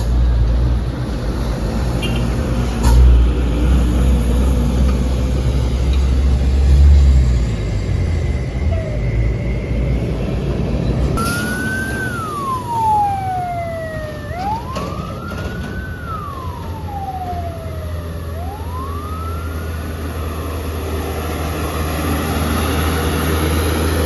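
A heavy diesel truck engine rumbles deeply under load, swelling in loudness a few times. About halfway through, a siren wails, sliding slowly down and up three times over a steady low engine drone.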